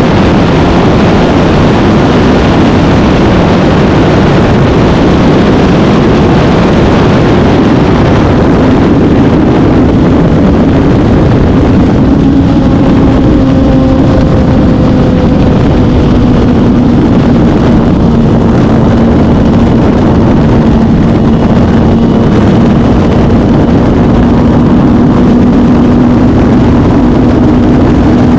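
Suzuki GSX-R1000 K8's inline-four engine running at a steady cruise, under a loud, even rushing noise. From about twelve seconds in, a steady engine tone stands out above the rush, easing slightly lower.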